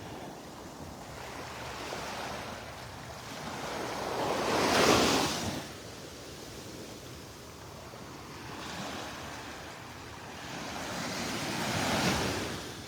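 Small waves breaking and washing up a sandy beach, two swells of surf, the louder about five seconds in and another near the end.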